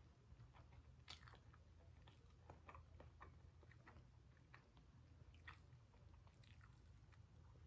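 Faint chewing close to the mic: soft, irregular mouth clicks and smacks of someone eating chicken and noodles, over a low steady hum.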